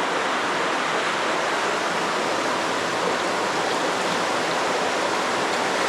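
Steady rush of flowing water in a cave, an even noise with no breaks.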